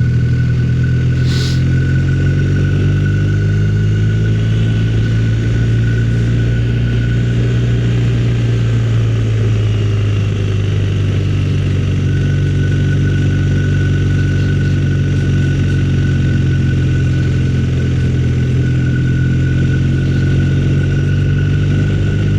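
Motorcycle engine running at a steady road speed while riding, its pitch sagging a little and recovering partway through, with a thin steady high whine above it.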